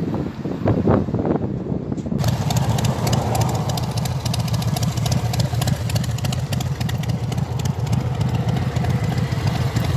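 An old pickup truck's engine running steadily with a fast, even exhaust pulse; the sound changes abruptly about two seconds in.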